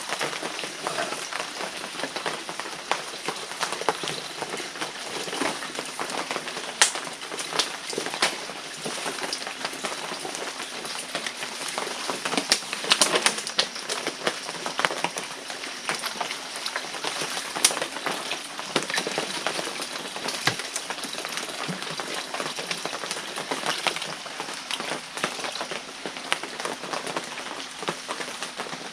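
Water being scooped up from a pool: continuous splashing and trickling with scattered sharp clicks and knocks.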